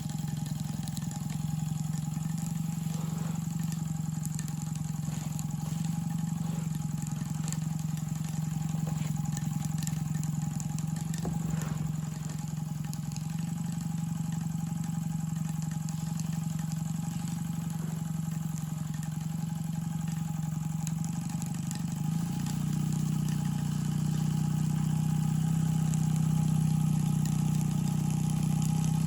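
Rocking Whale BL1K single-cylinder double-acting model steam engine running steadily with an even hum. It gets a little louder about three quarters of the way through.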